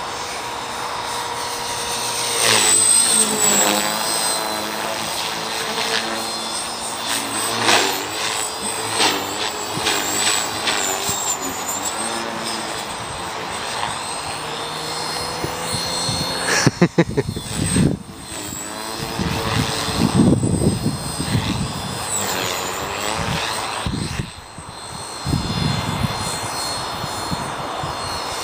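Align T-Rex 450 Pro electric RC helicopter in aerobatic flight, its motor and rotor whine rising and falling in pitch as it manoeuvres. Gusts of wind buffet the microphone about two-thirds of the way through.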